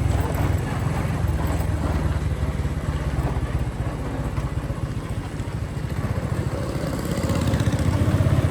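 Motorcycle engine running while riding, with wind and road noise; the engine note eases off in the middle and picks up again near the end.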